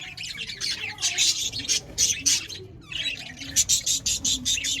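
A colony of budgerigars chattering and squawking together: many overlapping short, harsh chirps in quick succession, with a brief lull about three seconds in.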